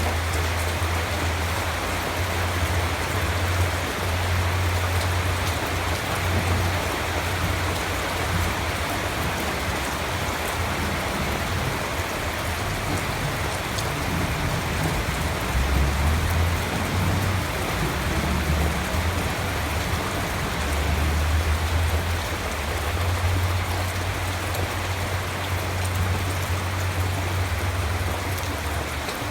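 Steady rain falling, an even hiss of drops with a deep low rumble underneath.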